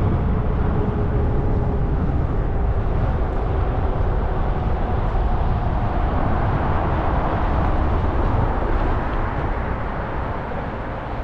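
Wind rushing over the microphone and tyre noise from a Zota Zephyr fat-tire folding e-bike riding along, with a faint motor whine that drifts slightly lower in pitch. The noise eases a little near the end.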